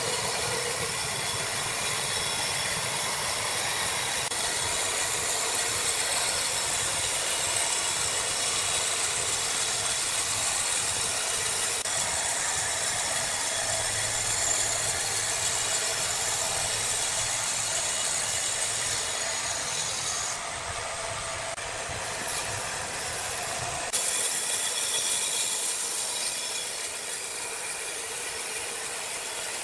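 Sawmill machinery running: a steady, loud saw and motor noise with a hiss on top and a rumble beneath. The noise changes abruptly about 20 seconds in and again about 24 seconds in.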